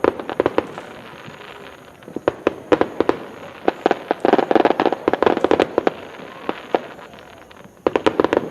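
Aerial fireworks going off in rapid clusters of sharp cracks and pops. Several volleys of crackling follow one another, with short lulls of hiss between them.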